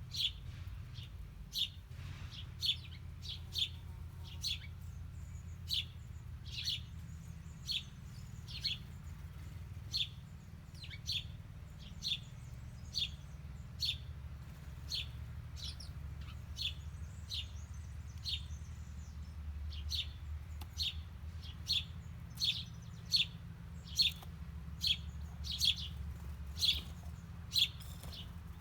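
Small songbirds chirping: short sharp chirps repeated about once or twice a second, louder toward the end, over a steady low rumble.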